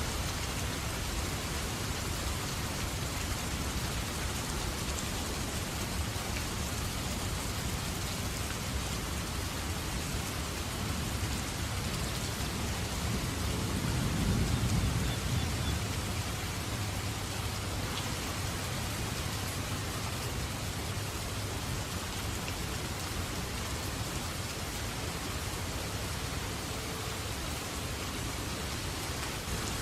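Steady rain falling hard. About halfway through, a low rumble of distant thunder swells and fades.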